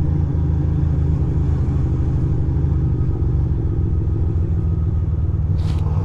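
2006 Ducati Monster 620's air-cooled L-twin engine running at steady low revs as the motorcycle rolls slowly along.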